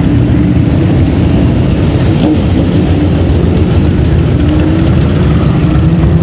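Loud, low rumble of vehicle engines driving past. From about two-thirds of the way through, one engine rises steadily in pitch as it speeds up.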